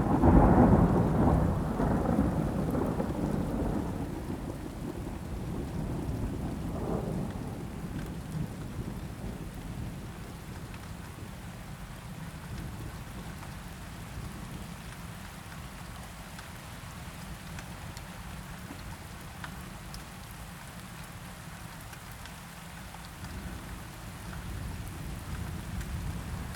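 Thunder rolling loudly at the start and dying away over several seconds, with a smaller rumble about seven seconds in, over steady rain.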